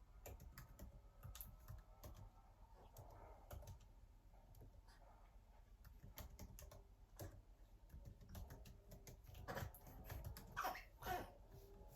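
Faint scattered light clicks and taps of household objects being handled, a few louder ones about ten seconds in.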